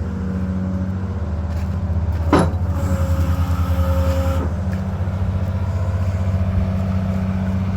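Heavy construction machine's engine running steadily, with a single sharp knock about two seconds in and a higher steady tone for about two seconds after it.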